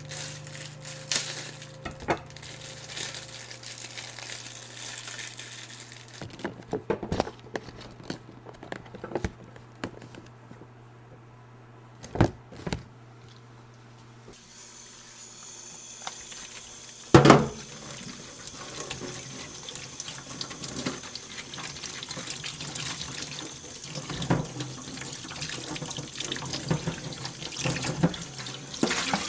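Water running from a tap into a sink, starting about halfway through and running steadily, with a loud knock soon after it starts. Before that come scattered clicks and clatter of kitchen work.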